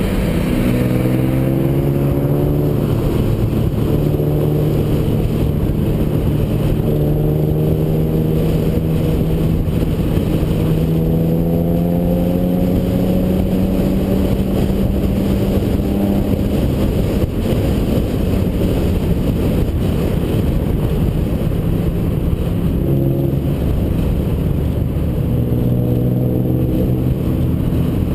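A Ferrari's engine pulling under steady load uphill, its note climbing slowly for about sixteen seconds. Then it drops away under steady wind and tyre noise, and comes back at a lower pitch near the end.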